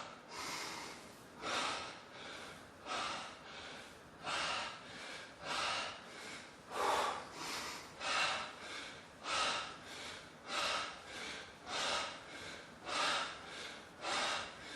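A man breathing hard and rhythmically from exertion during a timed exercise set, a loud forceful breath about every 1.2 seconds with quieter breaths between.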